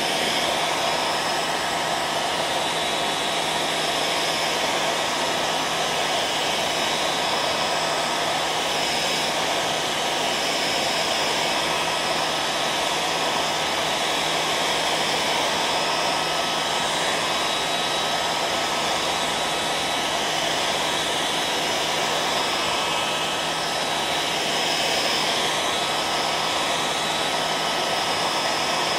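Hair dryer running steadily: an even rush of blown air with a faint, constant whine and low hum, unchanging throughout.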